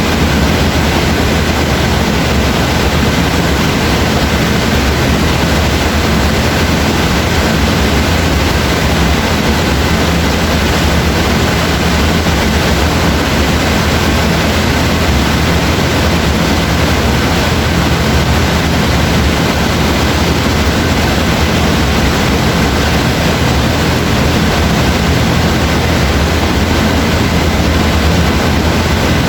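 Steady rain: an even, unbroken hiss with a constant low rumble beneath it.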